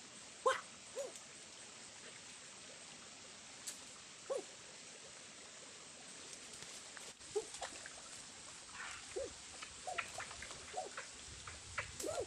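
Short animal calls, single rising-and-falling notes, a few in the first half and more often in the second, mixed with sharp clicks and rustling over a steady hiss.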